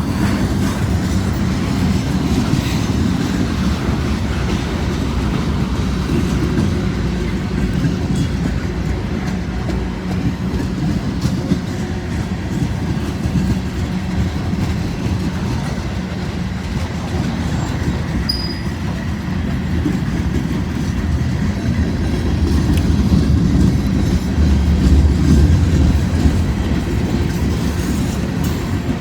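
Freight cars of a long mixed manifest train rolling past at trackside: a steady rumble of wheels on rail with the clickety-clack of wheels over rail joints and a faint wheel squeal, swelling slightly near the end.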